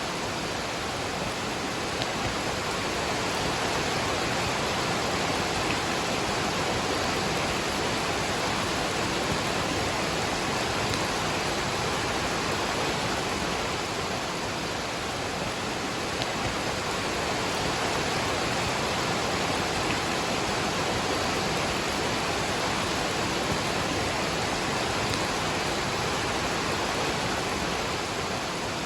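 Waterfall and rain making a steady, even rush of falling water.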